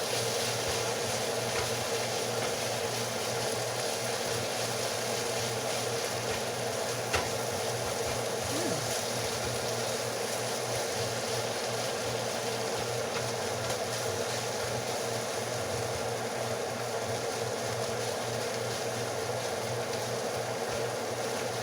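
Steady mechanical hum and whir of a running appliance, with a single click about seven seconds in.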